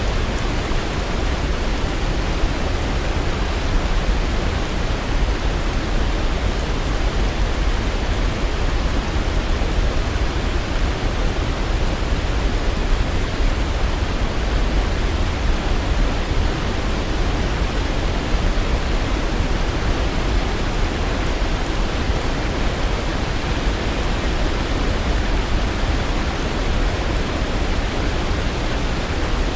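Waterfall rushing in a steady, even roar of falling water, heaviest in the low end, with no changes and no bird calls.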